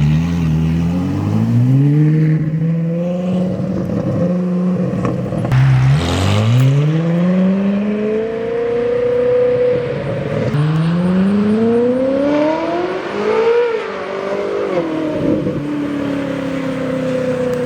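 Ferrari 488's V8 with a loud straight-piped or aftermarket exhaust, revving and pulling away, its note climbing through the gears with several upshifts, then easing off to a steadier note near the end.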